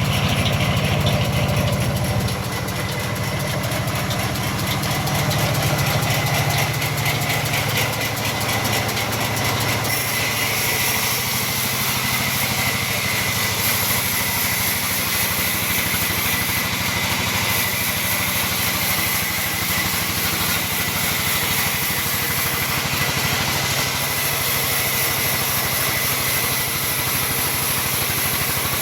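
Sawmill machinery running steadily while mahogany wood is sawn: a continuous machine drone with a steady high whine. The sound turns brighter and hissier from about ten seconds in.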